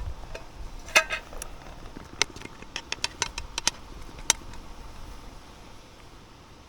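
Camp cookware and cutlery clinking: about a dozen sharp clinks and taps over the first four seconds or so.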